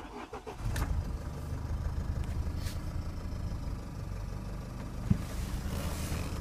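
Nissan 2.0 dCi turbodiesel engine starting about a second in and settling into a steady idle. A single sharp click about five seconds in.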